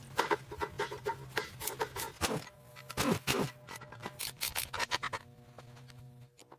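Irregular rubbing and scraping strokes of hand work on a part, over a steady low hum that stops near the end.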